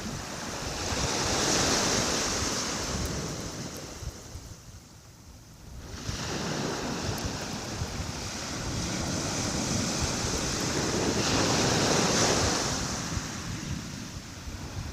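Calm sea waves washing onto the shore: two swells of surf noise, with a quieter lull between them that ends as the next wave comes in sharply about six seconds in.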